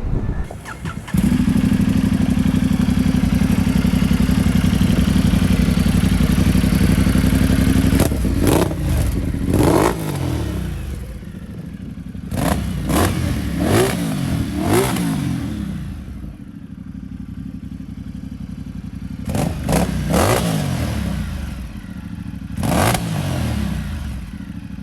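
Ducati Multistrada 1200 Enduro's 1198cc V-twin with an aftermarket Termignoni exhaust starting about a second in and running at a fast, steady idle. It is then revved in a series of short throttle blips, dropping back to a lower idle between them.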